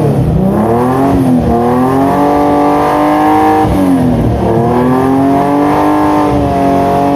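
Toyota 2000GT's twin-cam straight-six engine being free-revved to around 6,000 rpm. The revs are held high for a second or two at a time, dropping back about a second in and again about four seconds in before climbing once more.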